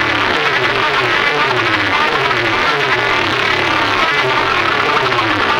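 Loud, distorted electronic competition track played through a large DJ speaker setup: a buzzing tone that falls in pitch over and over, about twice a second, over dense noise.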